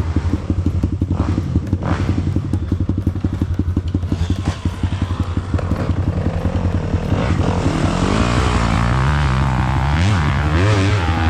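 Dirt bike engine pulsing evenly at low revs, then revved, its pitch rising and falling repeatedly from about seven seconds in.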